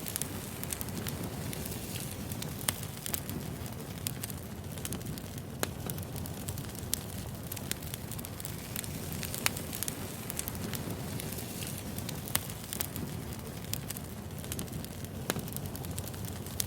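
Wood fire burning: a steady low rumble of flames with sharp crackles and pops of burning logs at irregular intervals.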